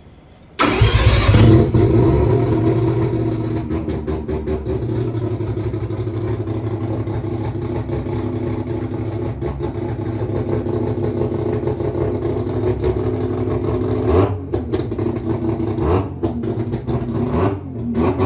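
Turbocharged Mazda 13B twin-rotor rotary engine in an RX-7 starting about half a second in, then idling steadily, with short blips of throttle near the end.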